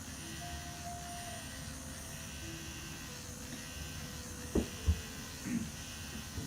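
Motorized FUE extraction punch (micromotor) humming steadily while grafts are harvested, with two sharp knocks in quick succession about two-thirds of the way through.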